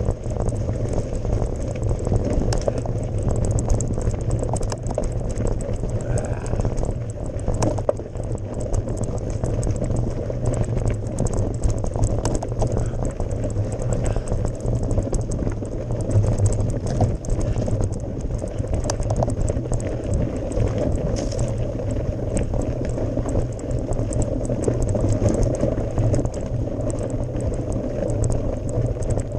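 Mountain bike ridden over a gravel forest road: tyres rumbling on loose gravel, with rattling and clicking from the bike over the bumps.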